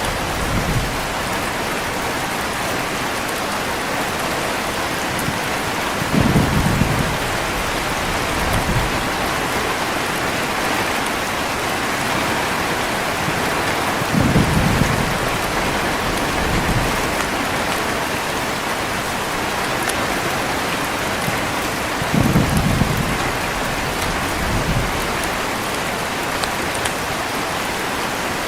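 Heavy rain falling steadily, with three low rumbles of thunder spaced about eight seconds apart.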